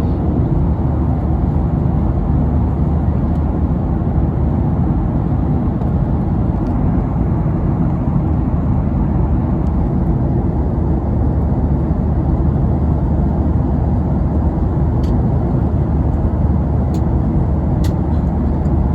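Steady cabin drone of an airliner in flight: engine and rushing-air noise heard from inside the cabin, low and unbroken.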